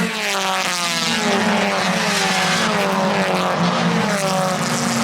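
Hyundai Excel race cars passing one after another at full throttle, each engine note dropping in pitch as it goes by, over a steady low hum.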